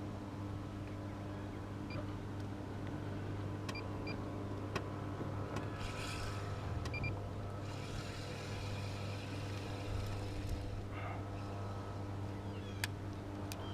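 A steady low motor hum, with a few light clicks and short rushes of hiss over it.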